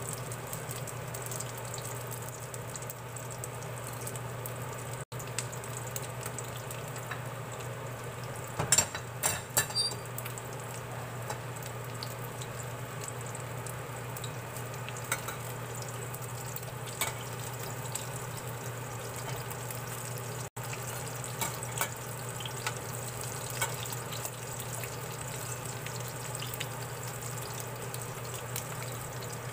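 Okoy, small-shrimp fritters, frying in shallow oil in a stainless steel pan, a steady sizzle over a low hum. A spatula knocks and scrapes against the pan several times about nine seconds in, with lighter taps now and then later.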